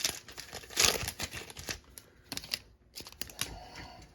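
A trading-card pack wrapper crinkling as it is handled and torn open. The crackling is densest in the first two seconds, loudest about a second in, then thins to scattered rustles.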